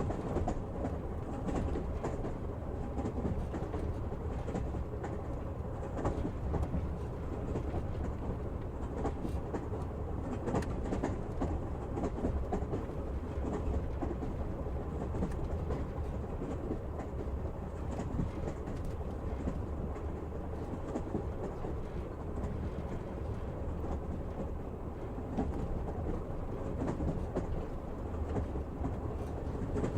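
Passenger train in motion, heard from inside a carriage: a steady low rumble with wheels knocking over rail joints.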